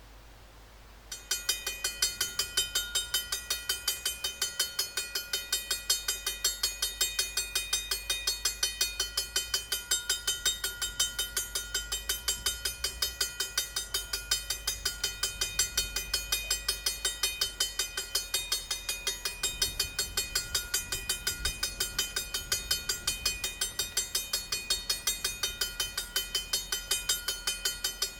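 Railroad grade-crossing warning bell starting suddenly about a second in and ringing steadily at about three strikes a second: the crossing signals have activated for an approaching train.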